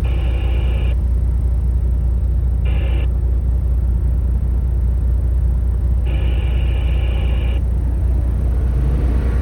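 Truck engine running steadily as heard inside the cab, a deep continuous drone. A higher whine comes and goes three times over it.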